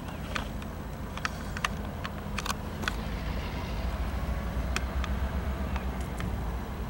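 Low, steady rumble of a Union Pacific local freight train's diesel locomotive passing, with scattered sharp clicks and ticks over it.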